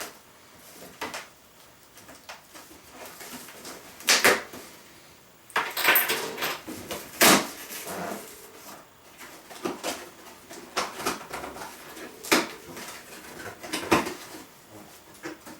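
Hands unpacking a boxed blender: irregular knocks and clunks of parts and cardboard being handled, with stretches of rustling packaging.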